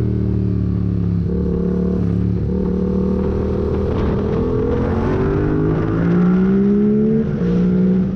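Yamaha MT-07's parallel-twin engine, breathing through a full MIVV exhaust with the catalyst removed and no dB killer, ridden hard. The pitch climbs and falls with the throttle, with brief breaks about a second in and near the end as the gears change.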